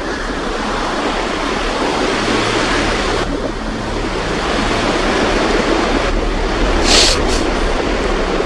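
Strong wind blowing across the microphone, a steady rushing noise, with a brief sharper hiss about seven seconds in.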